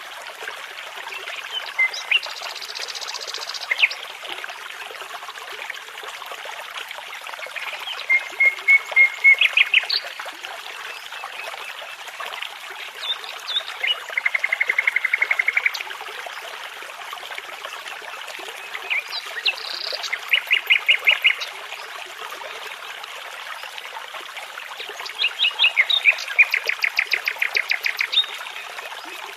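Songbirds singing in separate phrases of rapid repeated notes and trills, several times, over the steady rushing of a small brook.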